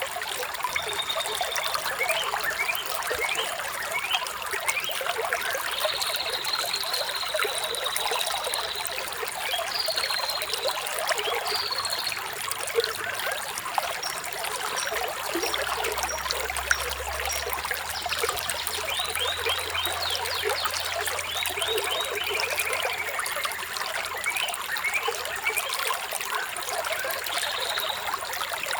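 Water trickling and babbling steadily in a stream, with birds chirping now and then in short high whistled notes, including a falling trill about three-quarters through.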